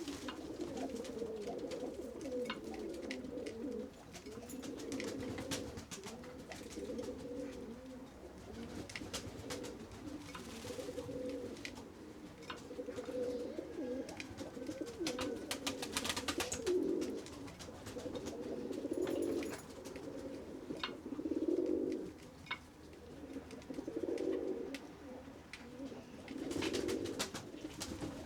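Pigeons cooing in overlapping, repeated low coos, with scattered sharp clicks and taps throughout.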